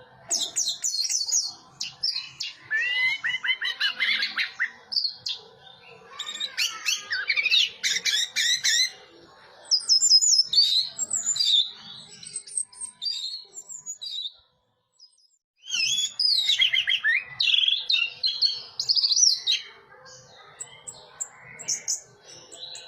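Orange-headed thrush (anis merah) singing in bursts of fast, varied, whistled phrases with short gaps between them. There is about a second of silence just past the middle.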